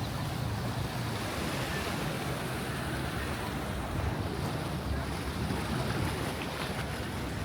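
Persian Gulf surf washing on the beach in a steady wash, with wind rumbling on the microphone.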